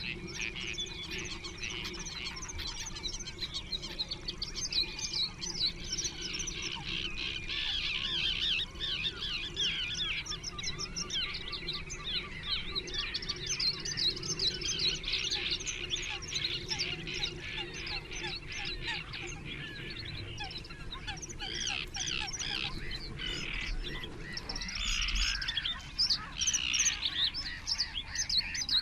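Small birds singing: a dense, continuous stream of rapid high chirps and trills, with a steady low hum underneath that stops about three-quarters of the way through.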